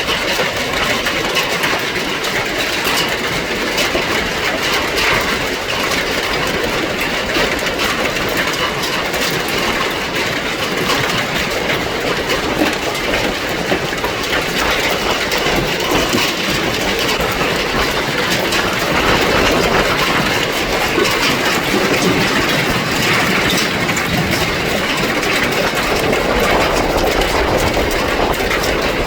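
Hailstones and heavy rain pelting down together: a dense, steady clatter of countless small impacts that goes on without a break.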